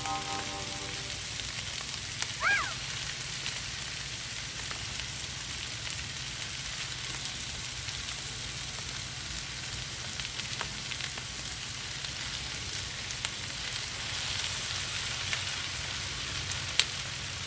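Onions and peppers sizzling steadily on a hot flat-top gas griddle. A short rising-and-falling tone sounds about two and a half seconds in, and a sharp click near the end.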